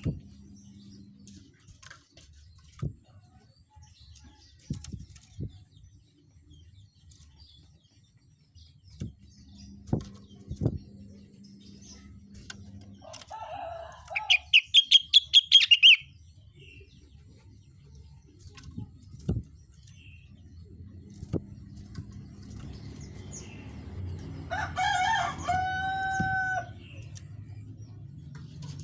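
A rengganis songbird calling: about halfway through, a fast loud burst of around ten high chattering notes. Near the end comes a longer, lower held call in several tones, like a rooster crowing. Scattered knocks and a low hum run underneath.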